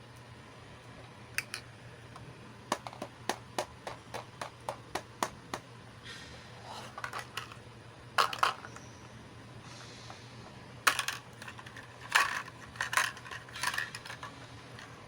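Small plastic miniature toy pieces clicking and clacking as they are handled and set down, starting with a quick run of light, evenly spaced clicks and then a few louder clacks in the second half, with a brief soft rustle between them.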